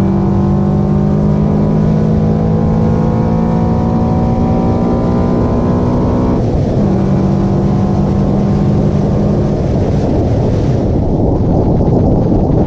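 Car engine fitted with an Acuity cold air intake, pulling under acceleration: the engine note climbs steadily, drops sharply at an upshift about six seconds in, then holds steady. In the last few seconds the engine note fades into a steady rush of road and wind noise.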